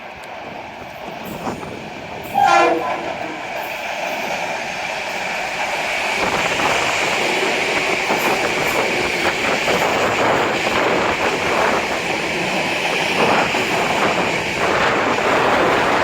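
Metro-North train coming through, its wheel-and-rail noise with faint rhythmic clicking growing steadily louder. A short horn toot sounds about two and a half seconds in and is the loudest moment.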